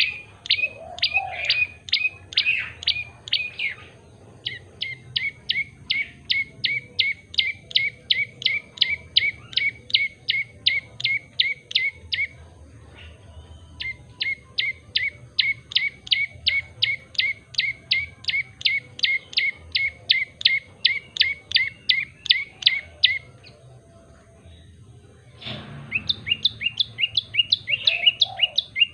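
Prenjak lumut tailorbird singing a fast, loud series of sharp, repeated chip notes, about four a second, in long runs broken by short pauses. A brief noisy thump comes shortly before the last run begins.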